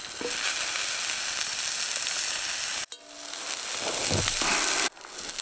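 Butter sizzling in a hot cast iron pan, a steady hiss that cuts off abruptly about three seconds in and builds back up before cutting off again near the end.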